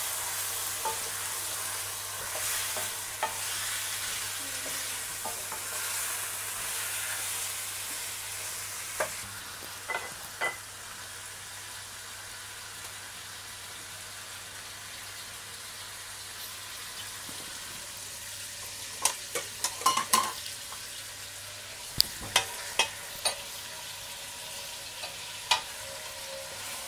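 Raw chicken pieces frying in oil with onions, ginger and garlic in a stainless steel pot, sizzling steadily, louder in the first few seconds and softer after. A stirring utensil knocks and scrapes against the pot in short sharp taps, bunched in the second half.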